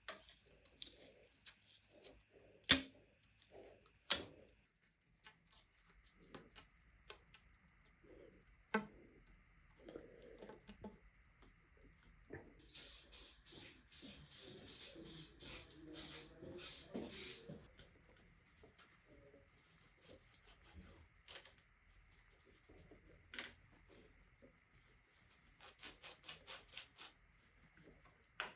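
Small hand-work noises: a few sharp clicks and knocks, then about five seconds of quick hissing strokes, about three a second.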